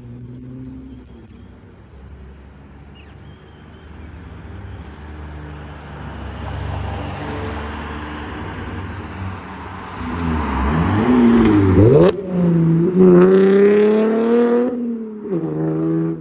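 Exhaust of a Holden VF Commodore SV6's V6 as the car drives by. The engine grows louder as it approaches and its revs swoop down and up. About twelve seconds in there is a single sharp pop from the exhaust, then the engine pulls hard under acceleration for about two seconds, lifts off, and revs briefly again near the end.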